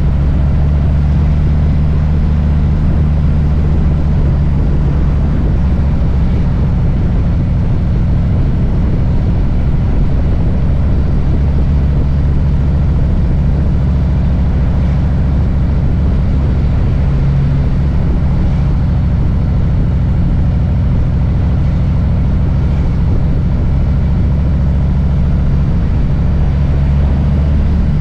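Harley-Davidson Low Rider S's Milwaukee-Eight V-twin engine running at a steady, low speed while riding, its deep exhaust note even throughout.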